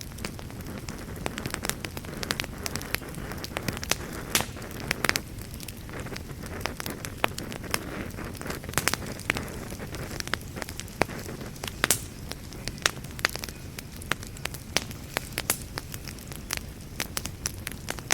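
Wood fire burning in a fireplace. It crackles steadily with frequent sharp, irregular pops over a low, even rumble.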